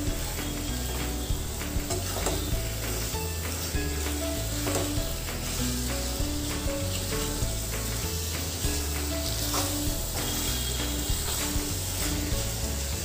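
Prawn masala sizzling in a pan while a metal spatula stirs it, with frequent short scrapes and knocks of the spatula against the pan. Soft background music with held low notes runs underneath.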